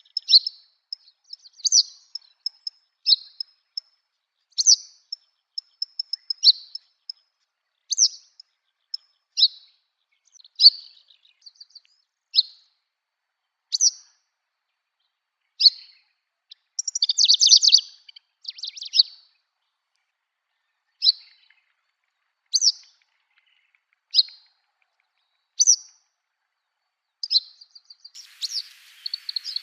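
Yellow wagtail singing: short, high, buzzy song phrases repeated about every one and a half seconds, with a longer, denser run of notes a little past halfway. A faint hiss comes in near the end.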